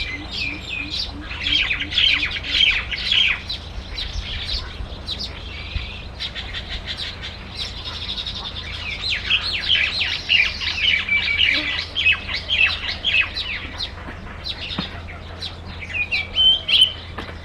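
Small birds chirping and calling, many quick overlapping chirps, with busy spells near the start and through the middle.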